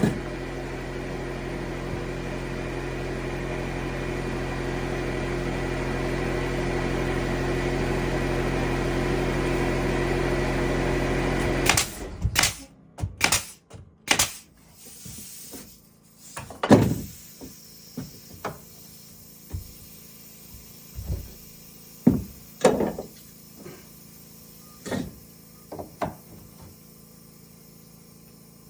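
A machine's steady hum, growing slowly louder, stops abruptly about twelve seconds in. After it come a dozen or so separate knocks and clatters, irregularly spaced, like wood or tools being handled.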